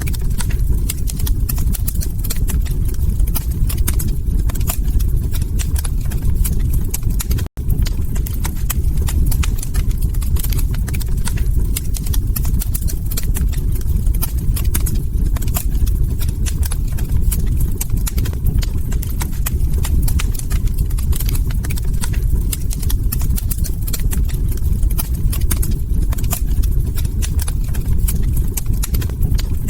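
Log fire crackling, with many sharp pops and snaps over a steady low rumble of burning. The sound drops out for a split second about seven seconds in.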